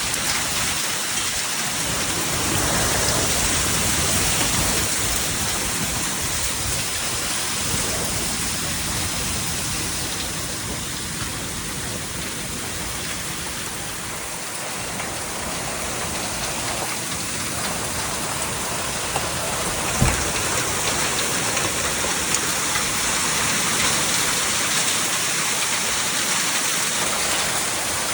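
Heavy rain pouring down in a severe storm, a steady dense rush of noise. A single short sharp crack comes about two-thirds of the way through.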